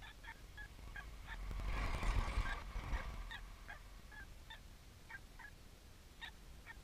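A bird calling over and over in short two-note calls, about two or three a second. A louder rush of noise with a low rumble passes about two seconds in.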